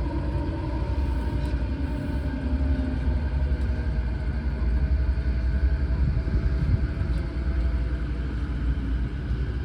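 Odakyu 4000 series electric train running, heard from inside a car: a low rumble with the traction motors' whine slowly falling in pitch as the train brakes on its approach to a station.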